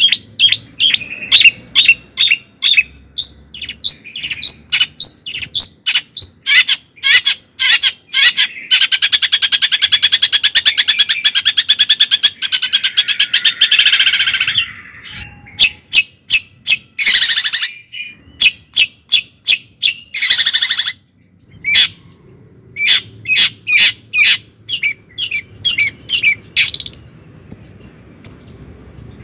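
A bird calling with runs of short, sharp chirps. About a third of the way in there is a fast trill lasting several seconds, and a little past the middle come two short harsh, noisy calls.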